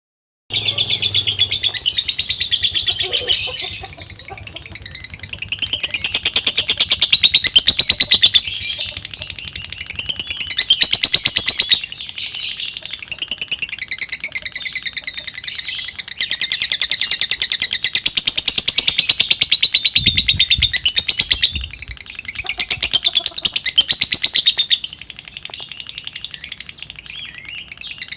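Lovebird chattering in long unbroken runs of rapid, high chirps, the fast continuous 'kereta uap' (steam train) style of song. The runs ease off briefly a few seconds in and again near the end, and there is a short low bump about two-thirds of the way through.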